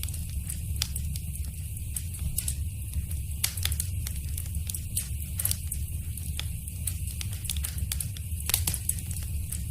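Wood fire in a fireplace crackling, with irregular sharp pops and snaps every second or so over a steady low rumble.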